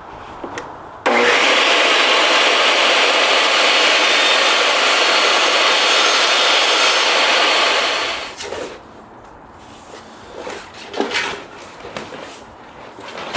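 Table saw cutting: a loud, steady rasp that starts abruptly, runs for about seven seconds, then dies away, followed by a few quieter knocks.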